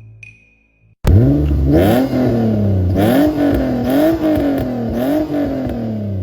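Car engine revving hard: after a near-silent second it starts suddenly, climbs in pitch, then rises and falls back again about once a second in repeated revs.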